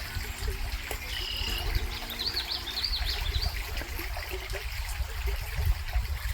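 A stream trickling steadily, with a bird giving a short series of chirps about a second in. A faint steady hum sits under the first few seconds.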